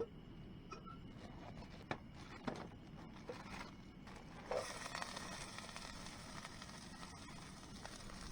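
Handling noise: a few light knocks and clicks, then steady rustling from about halfway through.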